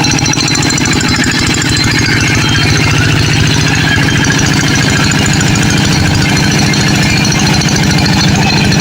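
Tractor engine running steadily and loudly, with a rapid, even beat.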